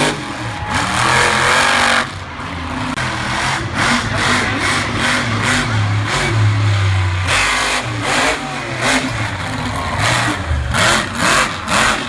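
Monster truck engine running hard, its revs rising and falling over and over, with loud low rumbling in the middle.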